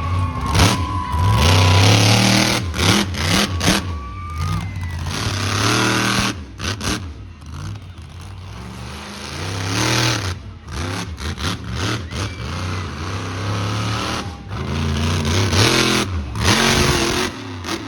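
Monster truck engines revving hard in repeated surges, the pitch climbing and falling, with a lull about halfway through.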